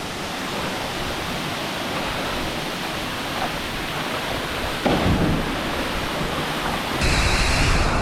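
Waterfall rushing: a steady wash of falling water, growing louder and deeper about five seconds in, then changing abruptly about a second before the end.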